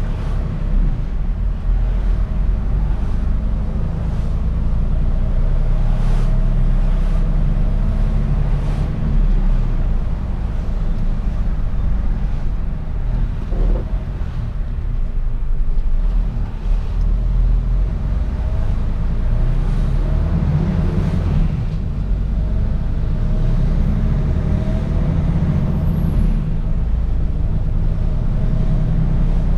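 Mercedes-Benz Actros truck's diesel engine running as it drives, heard as a steady low rumble from inside the cab, its note shifting a little about two-thirds of the way through.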